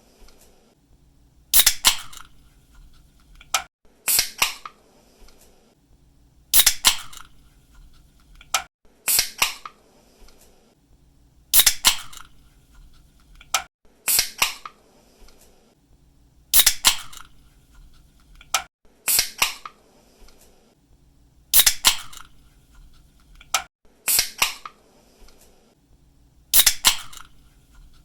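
Aluminium soda or energy-drink can opened again and again, about every two and a half seconds: each time a sharp click of the pull tab, then a louder, short pop and hiss as the tab breaks the seal.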